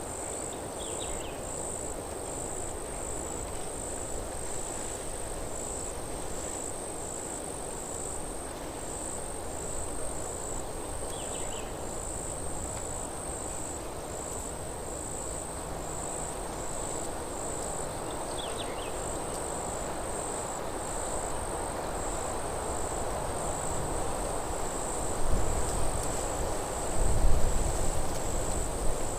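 An insect, cricket-like, chirping steadily in high-pitched pulses about once a second, over a steady rustle of wind in the trees. Three faint short calls come through, and a couple of low rumbles swell near the end.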